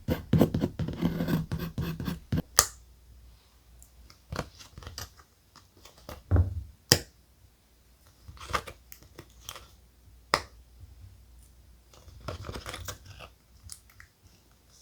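Thick craft paper being handled and cut with scissors. A dense rustle of paper comes first, then scattered sharp snips and taps with short rustles between them.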